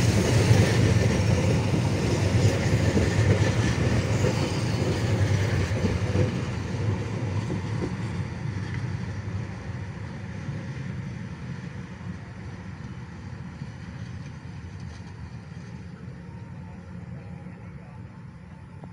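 Passenger train coaches rolling past on the rails, wheels rumbling on the track. The sound is loud at first and fades steadily from about six seconds in as the last coach moves away, leaving a faint rumble.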